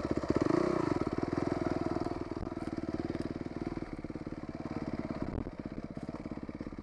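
Dirt bike engine running at low speed on a trail, pulsing evenly. It is louder in the first second or so with a brief rev about half a second in, then settles to a steadier, quieter pace.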